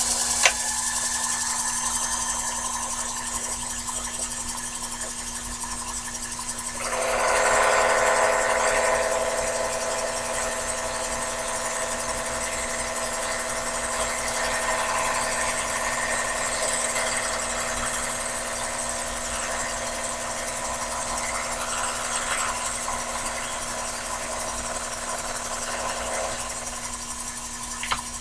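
Sherline mini lathe running steadily. From about seven seconds in until near the end, the tool takes a light 0.020-inch cut in hard die-cast aluminum, adding a louder rough cutting noise over the motor's hum.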